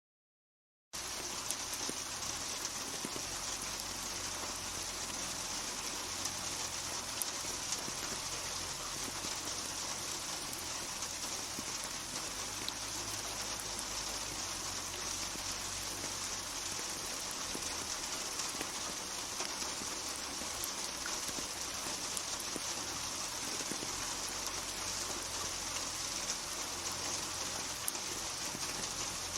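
Rain falling steadily, an even hiss with scattered sharp drop taps, cutting in suddenly about a second in after dead silence.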